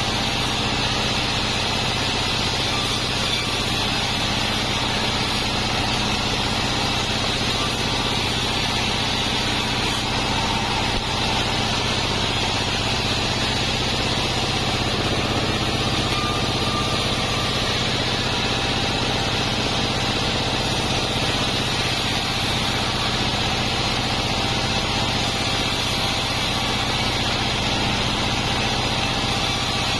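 Industrial sawmill band saw (a Taiwanese 'Bandsaw 36') running steadily with a constant motor drone and high blade noise, with no change in pitch or level.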